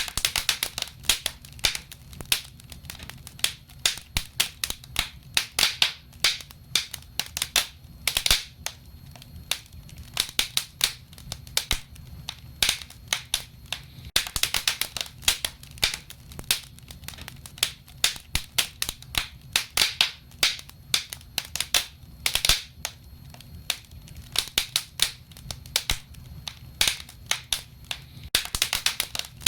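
Wood fire in a fireplace crackling: a steady run of irregular sharp pops and snaps, several a second and busier in clusters, over a low steady rumble of the flames.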